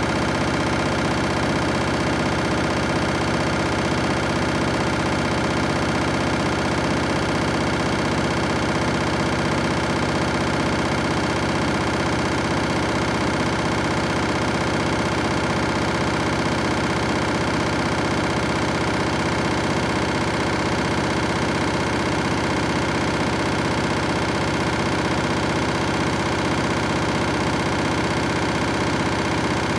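Candy washing machine on its high-speed final spin, set to 1600 rpm: a steady, unchanging motor whine and drum hum made up of many fixed tones. The machine is vibrating hard enough to shake the floor.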